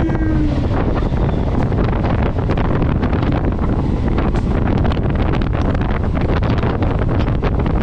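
EMU local train running at speed, with wind blowing hard across the microphone over a steady rumble and a dense clatter of clicks. The tail of a steady horn tone cuts off about half a second in.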